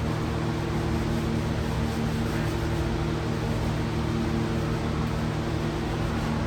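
A steady mechanical hum, several constant low tones over a noisy hiss, unchanging throughout.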